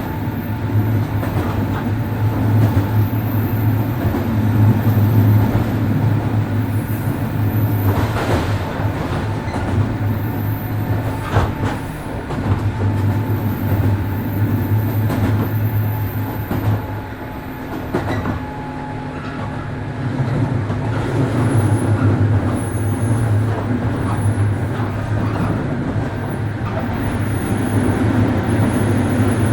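103 series 1500 electric train running: a steady low drone of motors and wheels on the track, with a few sharp clacks over rail joints and a brief dip in level a little past halfway.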